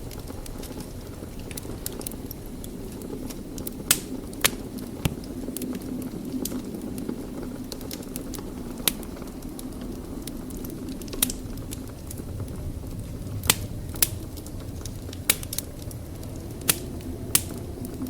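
Wood fire crackling in a fireplace: a steady low rumble of the burning logs with sharp, irregular pops and snaps every second or so.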